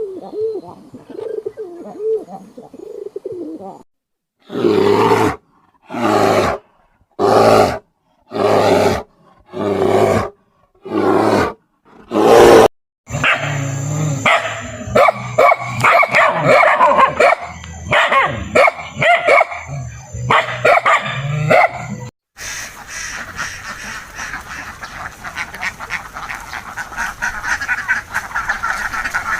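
Farm animal calls in a run of separate clips. Soft, wavering low calls come first. Then about seven loud calls follow one after another, roughly a second apart. A dense, overlapping mix of calls comes next, and then a steady, noisy chorus of many animals.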